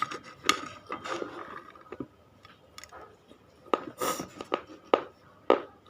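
Brittle baked clay being bitten and chewed close to the microphone: a string of sharp crunches and snaps, loudest in the second half, with a longer grinding crunch about four seconds in.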